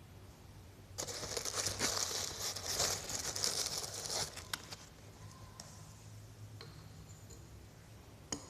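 Rustling, crinkling handling noise for about three seconds, then a few faint ticks and a sharp click at the very end.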